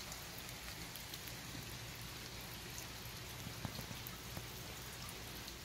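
Steady rain falling on paving and garden beds: an even hiss with a few faint ticks of single drops.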